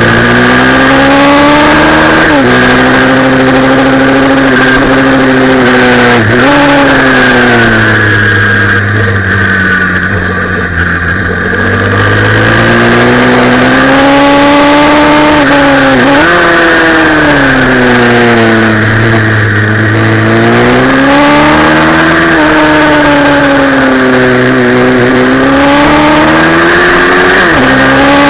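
Pit bike engine heard from on board at racing pace, its pitch climbing and falling as the rider works the throttle through the corners. The pitch breaks sharply about four times, over a steady rush of wind.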